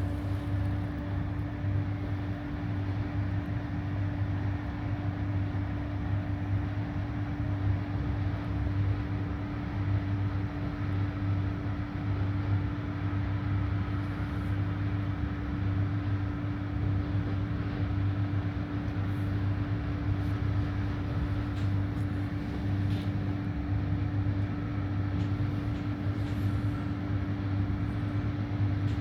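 Steady running noise of an ÖBB electric regional train, heard from aboard: an even rumble with a constant low hum and a steady higher tone above it.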